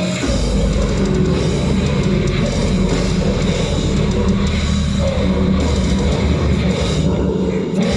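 Heavy metal band playing live, loud distorted electric guitars with drums and bass. The full band comes in just after the start, and there is a brief break just before the end.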